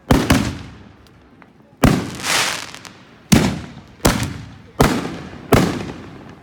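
Fireworks bursting overhead: a string of sharp bangs, about one a second with a quick double near the start, each trailing off in a fading rumble.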